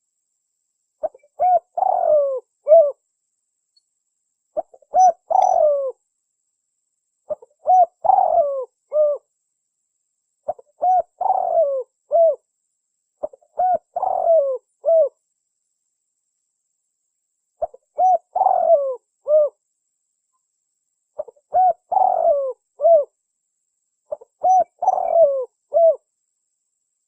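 Spotted dove cooing: eight repeated phrases, each a few short coos around a longer falling note, about every three seconds.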